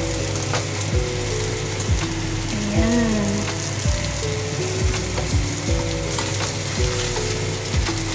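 Fish head and bone pieces sizzling steadily as they fry in oil in a wok, with a wooden spatula turning them. Background music with a stepping melody and a regular beat plays under it.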